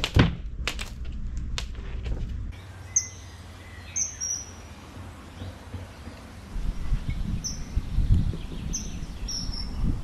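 A few sharp taps on the ground in the first two seconds, then birds chirping: about eight short, high, falling chirps spread over the rest, with dull low thumps joining in the last few seconds.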